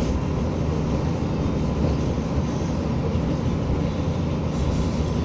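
Materfer diesel railcar running along the line at speed, heard from on board: a steady rumble of wheels on rail with a low engine drone underneath.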